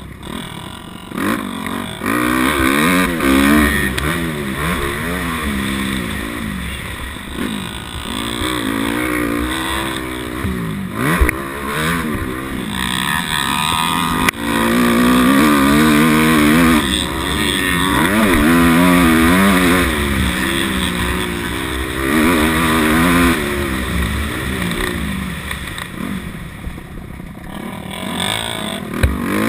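250-class dirt bike engine ridden hard, its pitch climbing and dropping over and over as the rider opens and closes the throttle, with a steady hiss under it. A sharp knock about eleven seconds in and another near the end.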